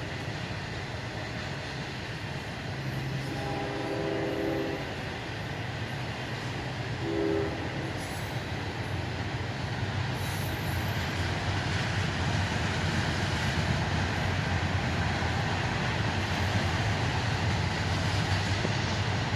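Freight train's locomotive horn sounding a short blast, a long blast and another short blast over the diesel engine's rumble, then the train rolling past with rail and wheel noise that grows louder.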